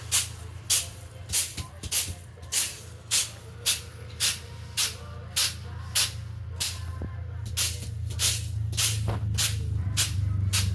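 Rhythmic rasping strokes of a hand tool being worked back and forth, about two a second, over a steady low hum.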